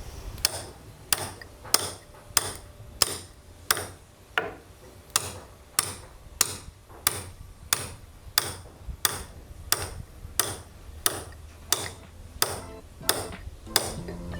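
Caulking mallet striking a caulking iron, driving cotton into the seams of a wooden boat hull: steady, evenly spaced blows, about three every two seconds.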